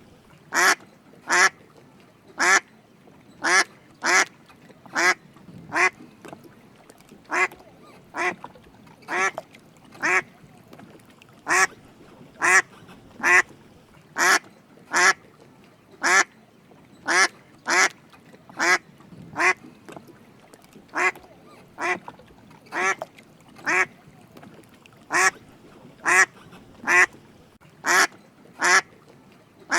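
Drake mallard duck quacking: short quacks repeated steadily about once or twice a second, many in quick pairs.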